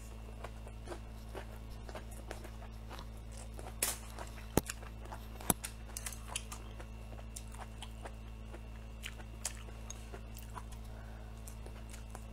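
A person biting and chewing blistered green chili peppers (tiger-skin peppers), with scattered small wet clicks and a few sharper pops about four to six seconds in.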